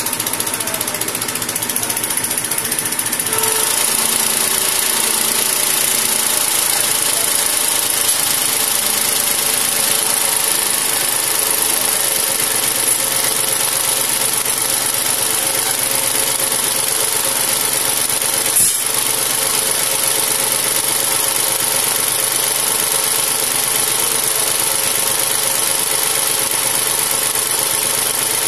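A machine running steadily with a high whine, its sound shifting slightly about three seconds in, with one brief click about two-thirds of the way through.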